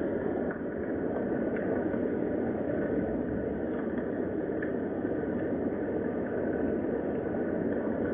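Steady rain, an even, dull hiss with a few faint ticks.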